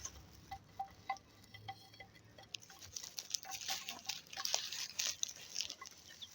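Aseel chickens pecking at feed: a rapid, irregular series of light, slightly ringing taps from beaks striking food and the dish.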